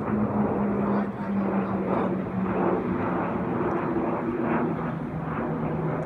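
Arriving airliner flying past, its engines giving a steady drone whose tone drops slightly in pitch near the end as it goes by.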